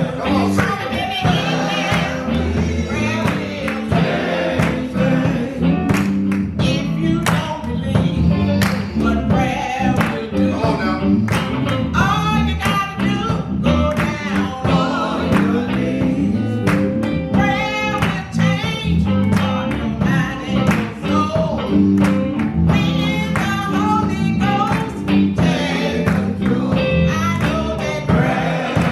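Church choir singing a gospel song with band accompaniment and a steady drum beat.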